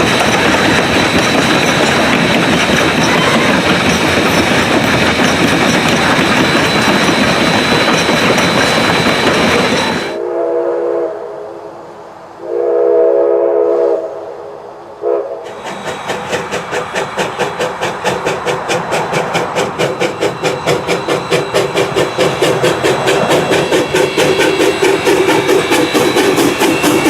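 Steam locomotive running with its train. About ten seconds in its chime steam whistle sounds two long blasts and a short one, and then the exhaust beats come through as a steady rhythmic chuffing that grows louder.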